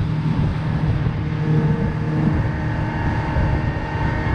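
Boat engine running steadily with a low hum, with wind on the microphone.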